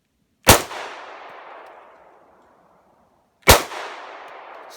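Two pistol shots from an HK P30 fired one-handed, about three seconds apart, each followed by a long fading echo.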